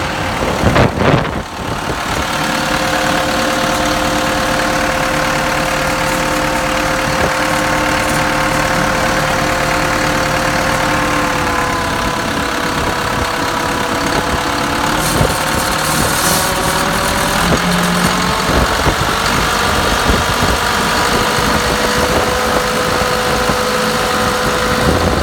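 Diesel engine of a 1994 Ford 9030 tractor running at a steady idle, with a short loud disturbance about a second in. Its pitch sags slightly midway, then climbs back up.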